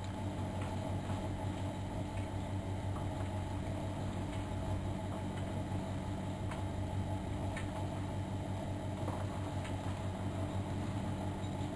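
Miele Novotronic washing machine running: a steady motor hum as the drum turns, with a few faint clicks.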